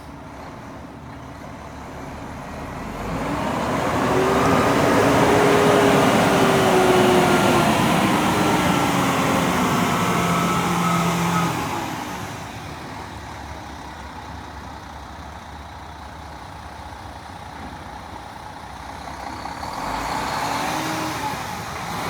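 International ProStar semi truck's diesel engine running. It grows louder over a couple of seconds and stays loud with its pitch rising and falling, then drops back to a quieter steady run about twelve seconds in. It swells again briefly near the end.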